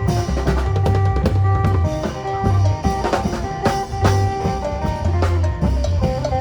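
Isan phin band playing lam phloen dance music: a plucked phin melody over drum kit and bass, with a steady driving beat.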